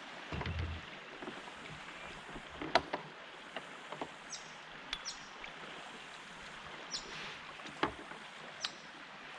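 Steady rush of flowing river water around a kayak, with scattered sharp knocks and clicks against the hull and a low thud about half a second in.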